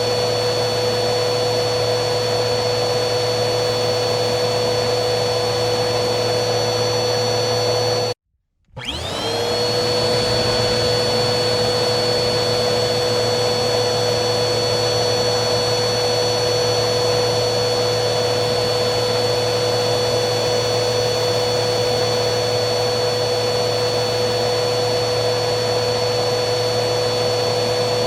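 Vacuum cleaner motor running with a steady hum and whine. About 8 seconds in it cuts out for about half a second, then comes back with a rising whine that settles into the same steady pitch.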